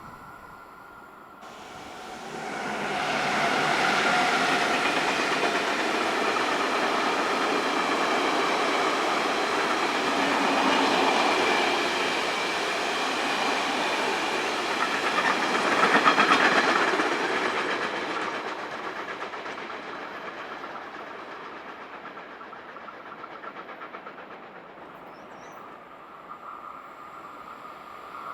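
A vehicle passing by: a rushing, rumbling noise swells up about two seconds in, stays strong, peaks a little past the middle, then fades away slowly.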